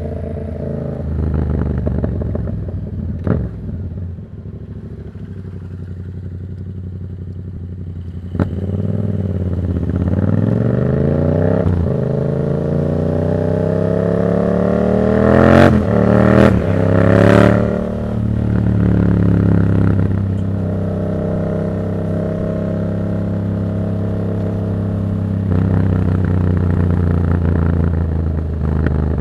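Yamaha MT-07's parallel-twin engine through a de-baffled Black Widow aftermarket exhaust. It runs steadily at first, then accelerates hard with the pitch climbing through gear changes about a third of the way in. A few sharp cracks from the exhaust come at the top, and it then settles into a steady cruise.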